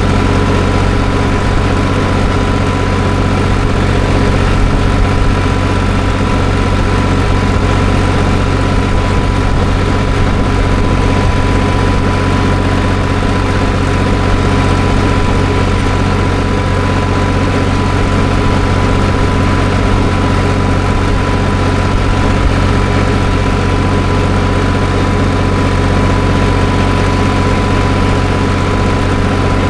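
Tractor engine running at a steady speed, loud and unchanging, with a steady whine over the engine note.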